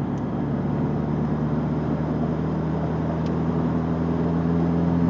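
Turbocharged Dodge Neon's four-cylinder engine running, heard from inside the cabin over tyre and road noise, with its drone rising slowly in pitch and loudness.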